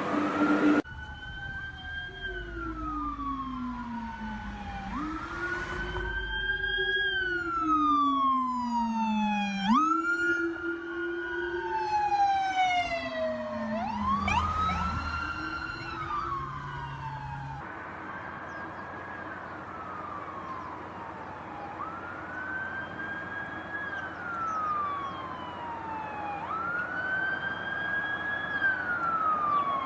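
American police siren in wail mode, its pitch rising quickly and falling slowly in repeated cycles of about three to four seconds. Brief quick upward sweeps join it about a third of the way in. About two-thirds of the way through the recording changes, and a steady rushing noise runs under the wail.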